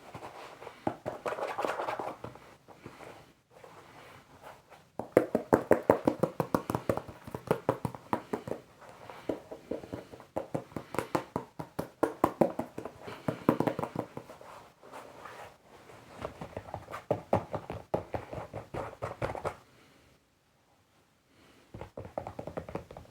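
Rapid tapping on foam Crocs clogs, in quick runs of many light taps with short lulls between them. The tapping stops for a second or two near the end, then starts again.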